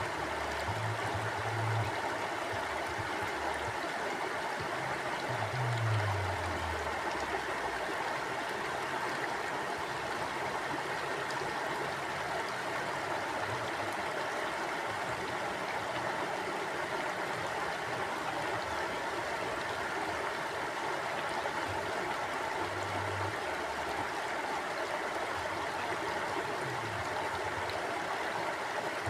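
Flowing stream running steadily over rocks, a continuous even rush of water. A few brief low rumbles rise through it, the most noticeable about a second in and again around six seconds in.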